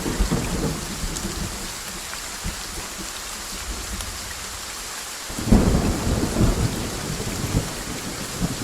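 Steady rain with thunder: a rumble dies away in the first second, then a new thunderclap breaks in sharply a little past halfway and rolls on, the loudest sound here.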